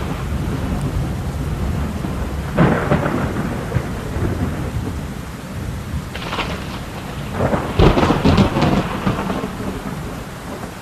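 Heavy rain falling steadily during a thunderstorm, with thunder breaking in several bursts: one about two and a half seconds in, and a longer crackling one from about six to nine seconds.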